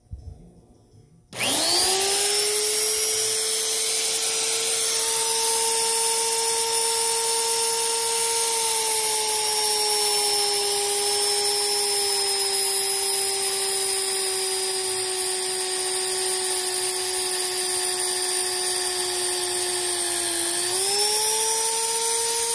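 Electric drill spinning up about a second and a half in and running continuously with a high, steady whine as it drills the hole for a panel switch. Its pitch sags slowly under load, then rises back near the end as the load comes off.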